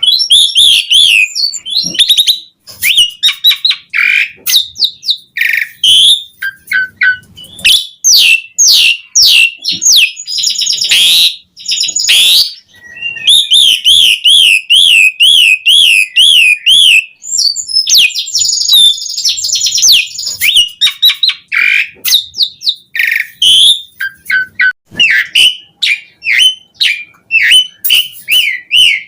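Asian pied starling singing loudly, a varied run of whistles, chatter and imitated phrases. About halfway through it breaks into a fast, regular warbling trill for a few seconds.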